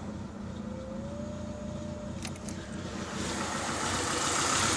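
Citroën Saxo 1.1i's four-cylinder petrol engine running just after starting, with a few sharp clicks a little past two seconds in and growing louder over the last second and a half. The misfire is still there, the owner thinks, even with the fouled spark plugs cleaned.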